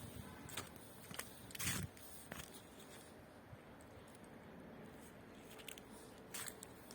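Footsteps: a few steps in the first couple of seconds, a pause of about three seconds, then steps again near the end.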